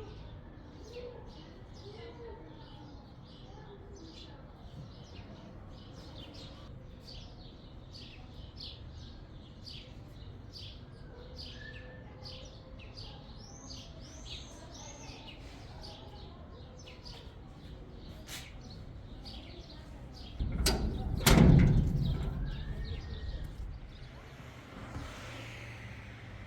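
Small birds chirping repeatedly in short high notes and quick curling calls, over a low steady background. About three quarters of the way through, a louder, brief noise of a second or two.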